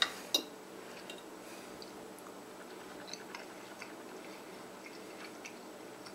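Two sharp clinks of a fork on a ceramic plate right at the start, then soft chewing of a bite of fried egg yolk, with faint small mouth clicks.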